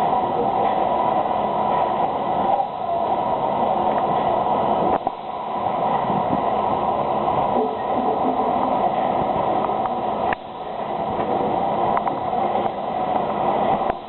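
Typhoon BLS two-lane oil bottling block running with a steady mechanical whir. A sharp click and a brief drop in the noise come about every five seconds.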